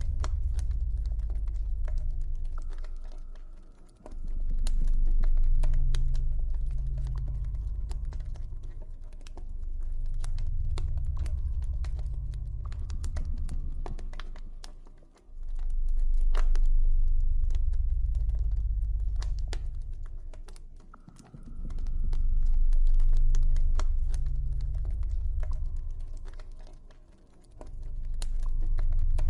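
Wood campfire crackling with frequent sharp pops and snaps, over a deep low ambient drone that swells up and fades away every few seconds, with a faint high tone held above it at times.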